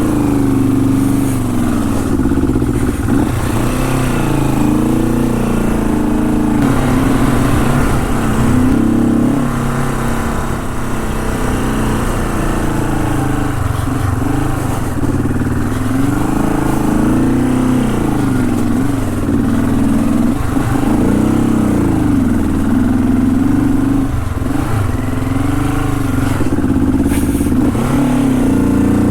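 Honda CL450 parallel-twin four-stroke engine running under load on a rough trail, its pitch rising and falling over and over as the throttle is opened and eased off.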